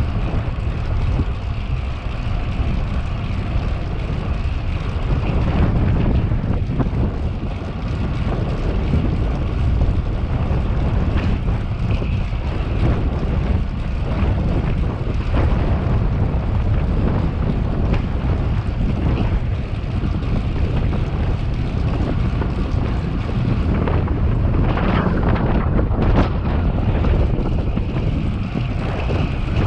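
Steady wind rush buffeting the camera microphone on a moving bicycle, heaviest in the low end, with the rolling noise of the ride underneath.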